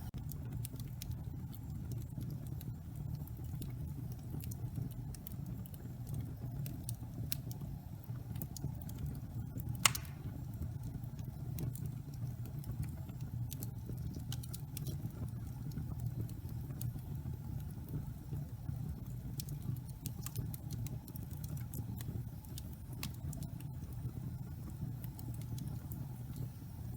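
Log fire burning in a fireplace: a steady low rumble with scattered small crackles and one sharp, louder pop about ten seconds in.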